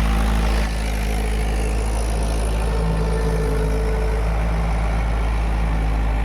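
Tractor engine running steadily with a deep, even rumble, dropping slightly in level about a second in.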